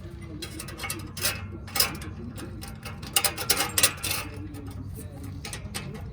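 Irregular clicks and clinks of small metal hardware, bolts and nuts being handled and fitted on an exhaust flange, busiest in the middle seconds.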